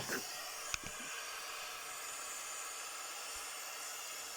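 Steady hiss of a pink noise test signal played through loudspeakers, with a single faint click about a second in.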